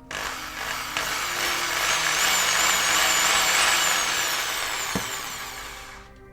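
Electric drill cutting into the metal base of a diecast toy car, the usual way to drill out its rivet for disassembly. The sound starts abruptly, swells for a few seconds and then fades away.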